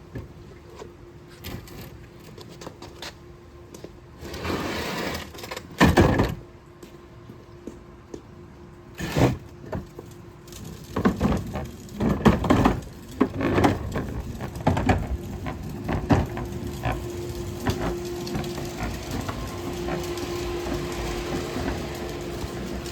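Plastic wheeled trash bins being handled and moved: a series of sharp knocks and bangs, the loudest a few seconds in and a cluster near the middle, followed by a steadier rumbling noise.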